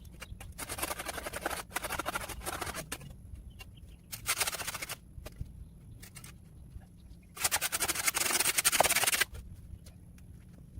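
Four separate scraping strokes, each about a second long; the last, near the end, is the longest and loudest.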